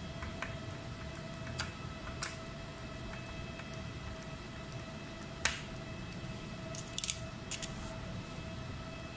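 Scattered small sharp clicks and taps, about six in all and irregularly spaced, over a steady hum with a faint steady tone.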